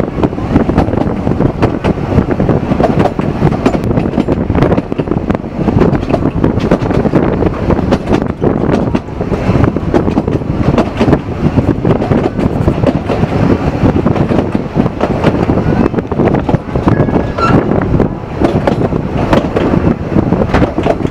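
Narrow-gauge steam train running along the line, heard from an open coach: a steady rumble of wheels on rail with irregular clacks and knocks from the carriages.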